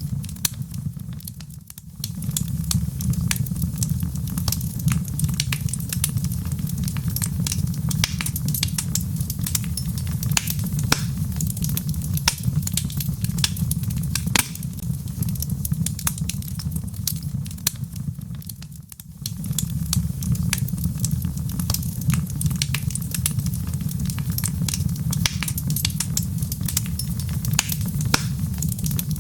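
Log fire burning in a fireplace: many small crackles and pops over a steady low rumble. The sound dips briefly twice, about two seconds in and again about two-thirds of the way through, then comes back.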